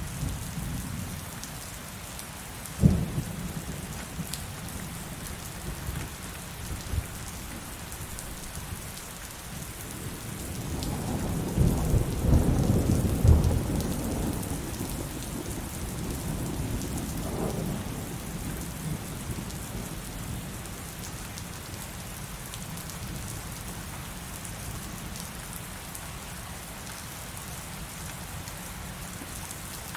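Heavy rain falling steadily on a surface, with a sharp thunderclap about three seconds in and a long rolling rumble of thunder that builds from about ten seconds, is loudest a few seconds later and dies away.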